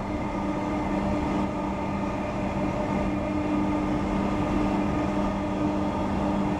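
Queensland Rail electric suburban train running at speed, heard from inside the carriage: a steady rumble of wheels on track with a constant low hum.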